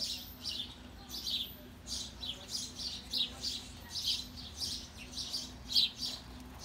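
Small birds chirping repeatedly, two or three short chirps a second, over a steady low hum.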